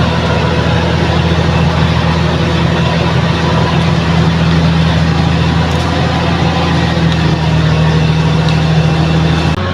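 Heavy diesel engine of a bulldozer running steadily under load, a loud, even low drone with clattering mechanical noise above it.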